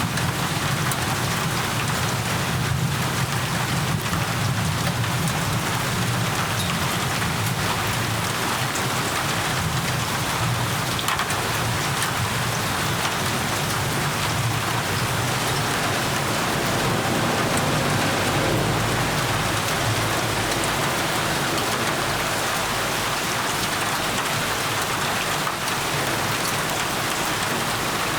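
Steady heavy rain pattering on surfaces, an even hiss throughout, with a low rumble underneath that swells a little past the middle, likely distant thunder.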